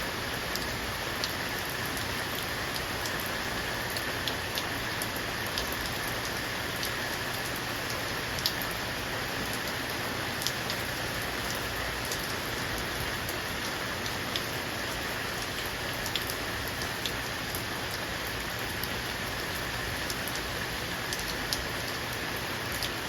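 Steady rain falling, with scattered sharper drop taps now and then.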